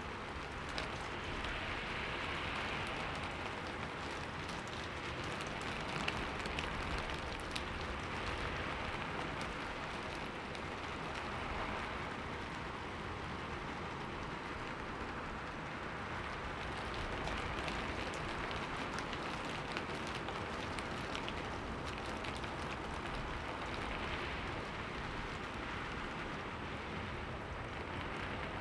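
Steady rain falling on a window, a constant hiss with scattered small drop taps, swelling and easing gently every few seconds.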